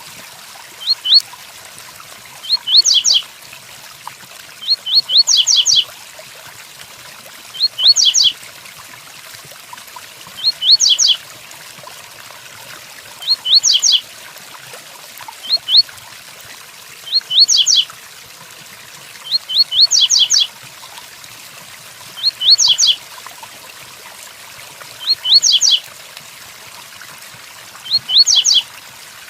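Double-collared seedeater (coleiro) repeating a short 'tui-tui' song phrase of a few quick rising whistled notes, about once every two to three seconds, over a steady hiss of rain.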